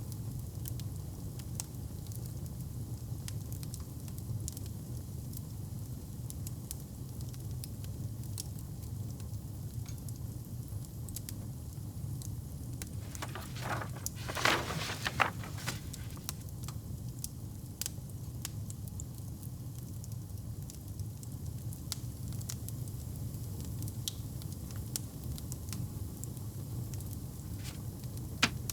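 Wood fire burning in a fireplace: a steady low rumble with scattered sharp crackles and pops, and a brief louder flurry of crackling about fourteen seconds in.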